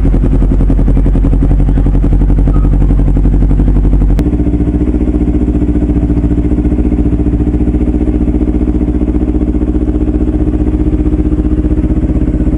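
Kawasaki Versys-X 250's parallel-twin engine idling loudly through a Norifumi slip-on exhaust with its dB killer removed, just after a cold start. About four seconds in there is a click and the idle note changes, then it runs on steadily.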